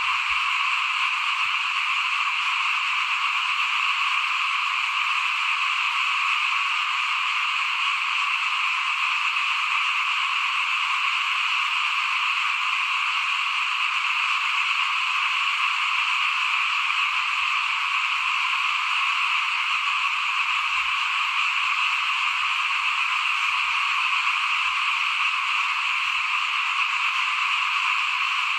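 Dense chorus of many small frogs calling at once, their calls overlapping into one steady, unbroken sound with no let-up.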